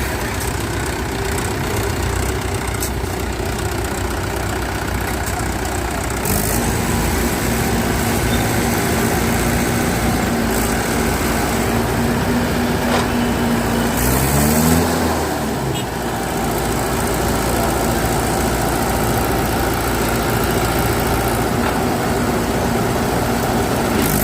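Diesel tractor engine running steadily. It revs up to a higher, steady pitch about six seconds in, and rises and drops briefly about halfway through.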